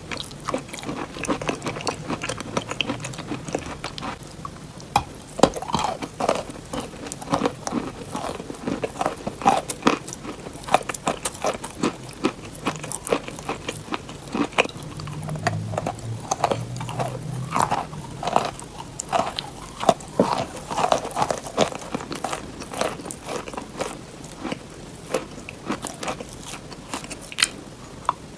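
Close-miked chewing of hard, crunchy cheese: irregular crisp crunches and crackles with wet mouth sounds between the bites.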